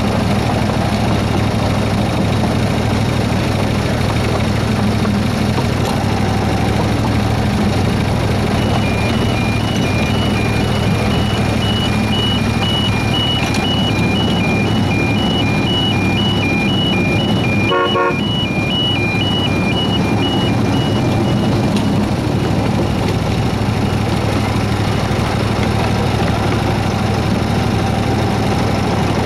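Engine of a 7¼-inch gauge Baldwin S-12 outline miniature locomotive running steadily under way, heard from the driver's seat. From about 8 s in until about 22 s, a high two-tone beeping alternates steadily over it, and a brief sharp sound cuts in once near 18 s.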